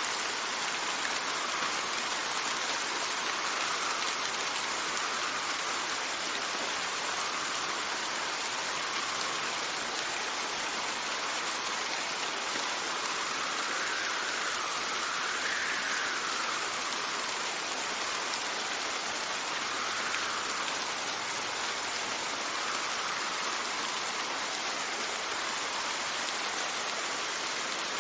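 Steady rain falling, with wind swelling and easing every few seconds.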